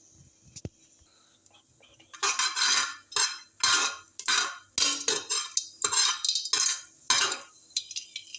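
A spoon scraping and stirring cardamom pods as they fry in olive oil in a pan: quiet at first, then about eight quick scraping strokes, roughly one and a half a second.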